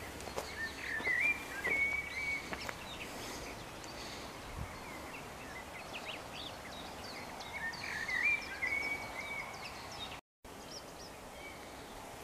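A songbird singing a short chirping phrase twice, several seconds apart, over faint rural background.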